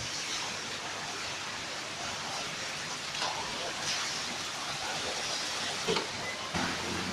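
Heavy rain pouring steadily, an even hiss with a few brief louder splashes.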